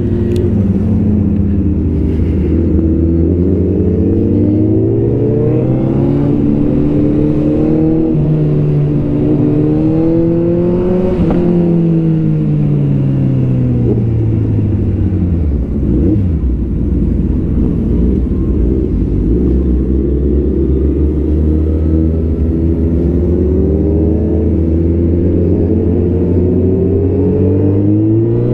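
Superbike engines with full exhausts running loud in a large group ride. One engine note climbs steadily for about ten seconds, drops away over the next few, holds low, then climbs again near the end.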